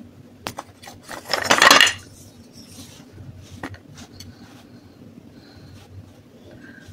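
Pieces of baked clay pot clinking against each other and a plate, with a short dense rattle about a second in and a few scattered clicks after.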